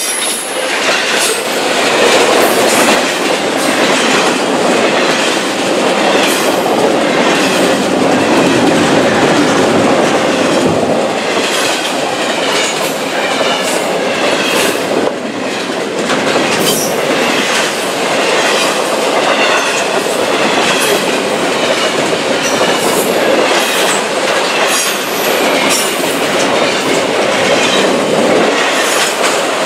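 Double-stack intermodal freight train rolling past close by: a steady rumble of steel wheels on rail with repeated clickety-clack as the wheels cross rail joints, and some high wheel squeal at times.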